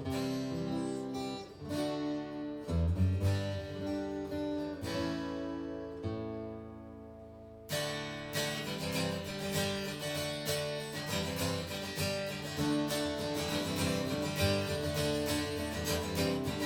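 Acoustic guitars playing an instrumental passage without vocals. Slow chords are struck and left ringing, then about eight seconds in a fast, steady strum kicks in.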